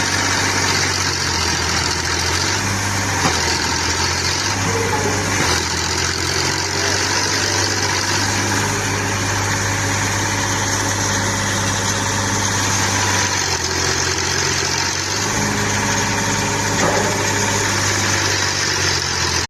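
Sonalika tractor's diesel engine running, its pitch stepping up and down a few times.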